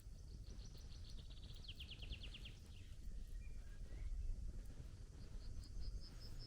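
A songbird singing a rapid trill of high notes that steps down in pitch, lasting about two seconds. Another short run of high notes comes near the end. A steady low rumble runs underneath.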